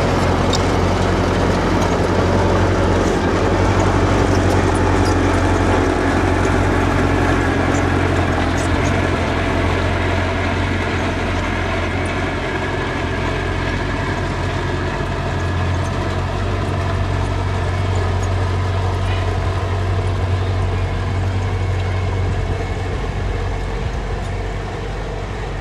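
Diesel engine of earthmoving machinery running steadily under load, with faint light ticks over the engine note. The level drops a little near the end.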